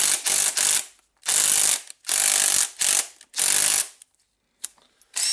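Makita DTD146 cordless impact driver running in short trigger pulls, about seven bursts of under a second each, then stopping about four seconds in with a single click after. It is a test run after fitting new CB-440 carbon brushes correctly, and the motor now runs.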